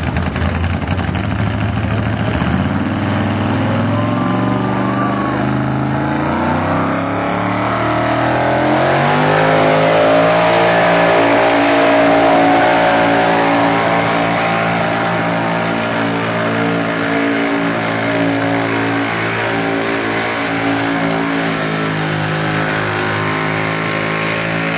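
Modified pulling tractor's engine at full throttle during a pull, climbing steadily in pitch over the first several seconds, then holding high revs.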